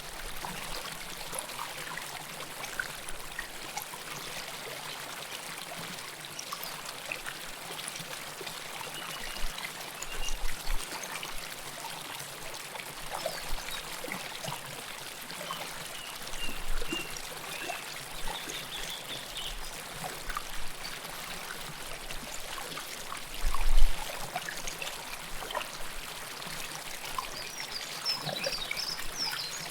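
River water flowing and trickling close to the microphone: a steady rush with many small splashes and gurgles. A brief low rumble about four-fifths of the way through is the loudest moment.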